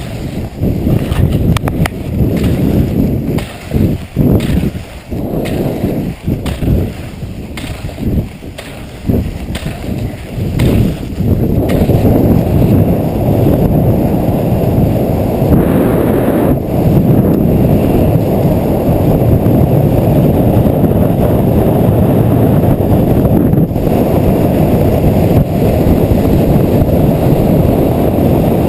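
Wind buffeting a GoPro's microphone on a downhill ski run, gusty and uneven for the first dozen seconds, then a steady loud rush.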